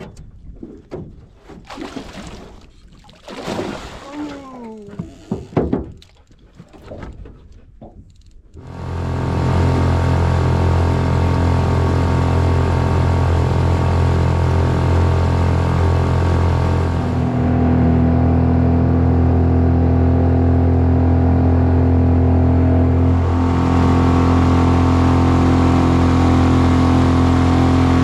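Boat's outboard motor starting up about nine seconds in and running steadily. Before that there are scattered knocks and a short whine.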